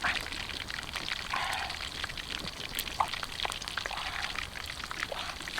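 Water pouring and splashing, with many small clicks and drips mixed in.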